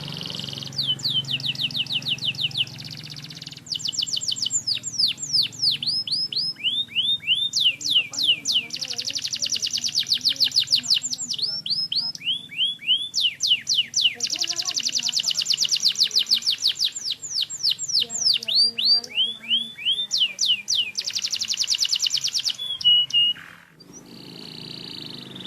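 Domestic canary in full song: long trilled phrases, each a fast run of rapidly repeated notes sweeping downward, changing speed from phrase to phrase with brief breaks between them. The song stops near the end.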